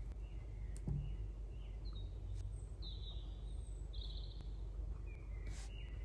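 Several short bird chirps, some gliding in pitch, over a steady low background hum, with a soft knock about a second in and a brief click near the end.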